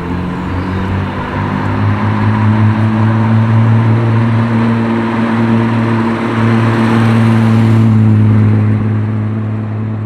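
A car engine running steadily close by, its note edging up slightly about two seconds in.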